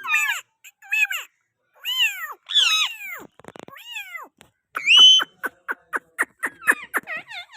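Green Indian ringneck parakeet calling: a string of loud, gliding squawks that swoop down and up in pitch, then a quick run of short chattering calls about five a second near the end.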